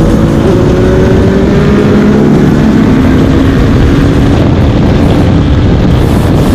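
Benelli 600i motorcycle's inline-four engine running steadily at road speed, its pitch drifting slightly down and then up, under heavy wind rush on the microphone.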